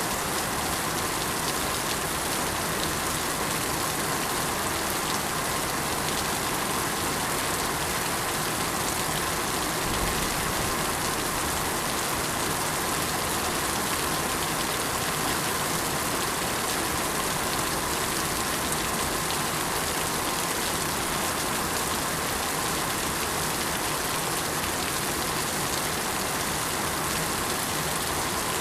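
Steady rain falling, an even hiss of many drops that neither builds nor fades.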